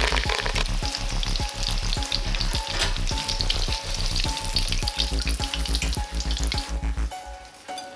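Battered chicken pieces and basil leaves deep-frying in hot oil: a dense sizzle with crackling that fades out about seven seconds in. Background music with low steady notes runs underneath.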